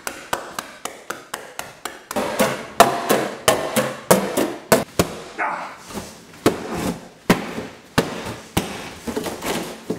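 Repeated sharp stabbing knocks, about three a second and unevenly spaced: holes being punched into a cardboard boat.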